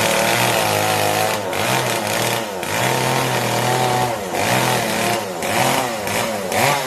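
Chainsaw running and cutting through a fallen tree, its engine pitch dipping and rising again and again.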